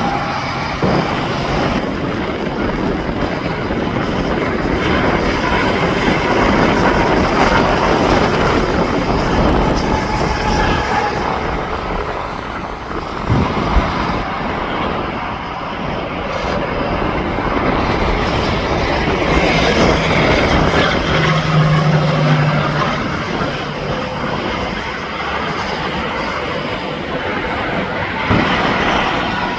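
Heavy interstate highway traffic going by: a steady rush of tyre and engine noise from trucks and cars, swelling as vehicles pass close.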